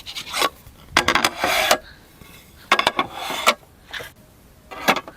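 Scraping and rubbing noises in several short bouts a second or so apart, like objects being handled and rubbed against each other.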